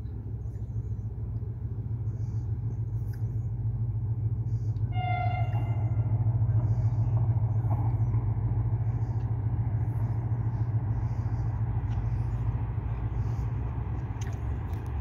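Steady low rumble of an approaching diesel train locomotive, with one short horn note about five seconds in.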